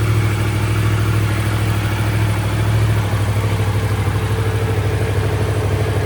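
Yamaha MT-10 SP's CP4 crossplane inline-four engine idling steadily.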